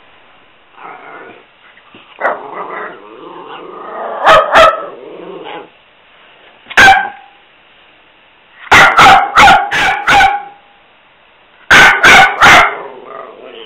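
Italian greyhound barking and growling in play: low grumbling 'talking' noises in the first few seconds, then sharp barks, one alone and then quick runs of three to five.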